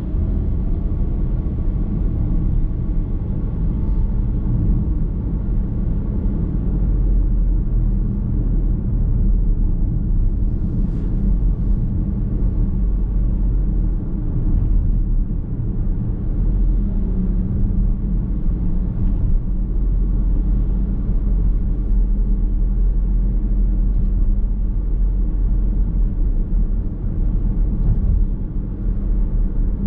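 Steady road noise of a car driving at speed, heard inside the cabin: a continuous low rumble of tyres and engine.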